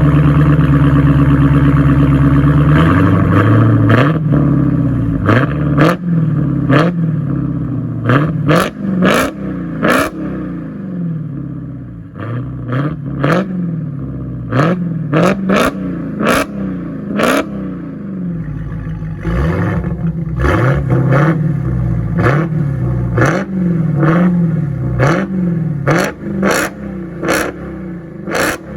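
Dodge Hellcat's supercharged 6.2-litre HEMI V8 through a Kinney's Tunnel Ram performance exhaust. It holds a steady high rev for about three seconds, then is blipped over and over, about once a second, each rev rising and falling quickly with a sharp crack from the exhaust.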